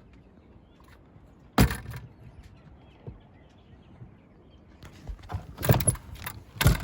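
Knocks and thumps of gear being handled aboard a sailboat: one sharp bang about a second and a half in, then a run of knocks and bangs in the last two seconds.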